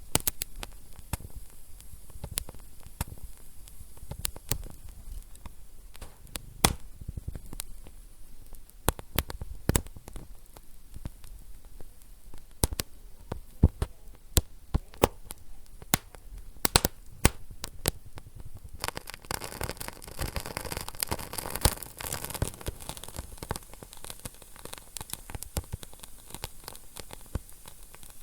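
Wood fire in a fireplace crackling, with frequent sharp pops of varying loudness. From about two-thirds of the way in there is a few seconds of hissing.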